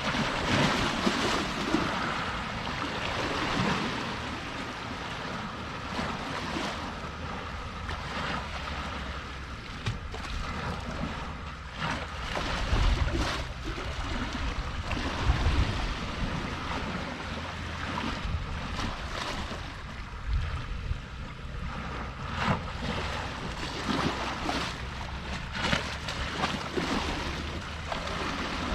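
Sea water washing and splashing irregularly at the shore, with wind gusting on the microphone in low rumbles about halfway through.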